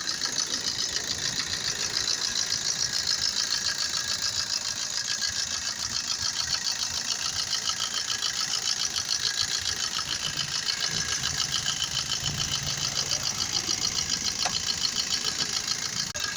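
Suzuki S-Cross engine idling just after being started, with a fast, even ticking clatter running through it.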